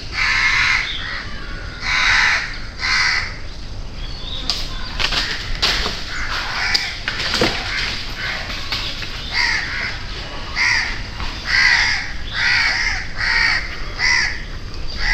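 Crows cawing over and over, short harsh calls about once a second, coming closer together in the second half. A few sharp clicks come about five seconds in.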